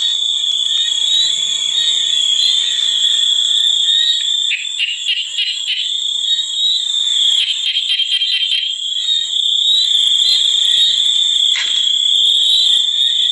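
Dense, steady high-pitched chorus of calling creatures in a nature recording: a continuous shrill tone with pulsing trills running through it.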